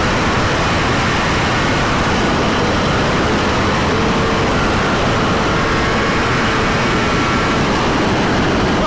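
Sport motorcycle being ridden at steady speed: engine running under a constant rush of wind noise, with no change in pace.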